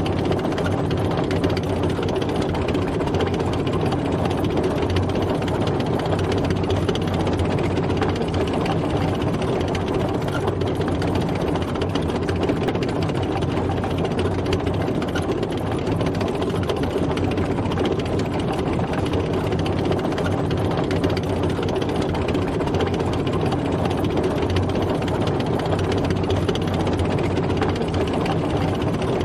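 Military tank driving: a steady heavy engine drone with the rapid rattle of tracks, unchanging in level and pitch.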